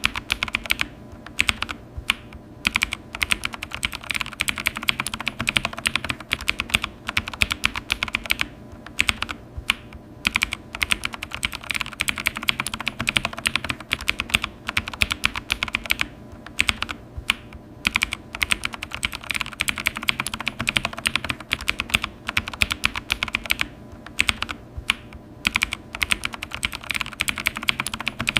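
Typing on a computer keyboard: a dense, fast run of key clicks, broken by a few brief pauses.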